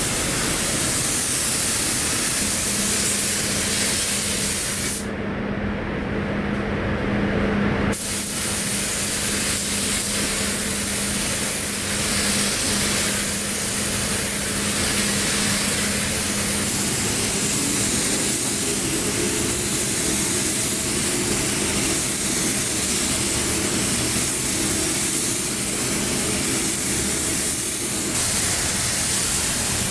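Steady loud hiss with a low hum underneath; the upper part of the hiss cuts out for about three seconds around five seconds in, then returns.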